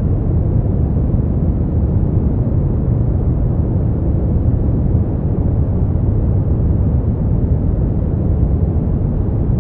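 Brown noise: a steady, deep rumbling hiss, strongest in the bass and dying away above the midrange, with no change or events.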